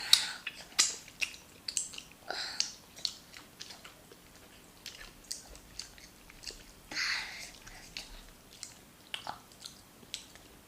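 Chewing and biting on a mouthful of rice and stew: a run of short wet mouth clicks with several longer, louder smacks, the longest about seven seconds in.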